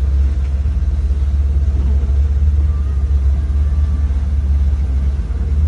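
Steady low rumble of a motorboat underway.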